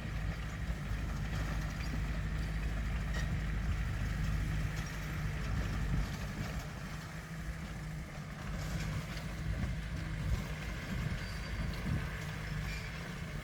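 Diesel engine of heavy earthmoving machinery running steadily, a deep low drone, with a few faint clicks over it.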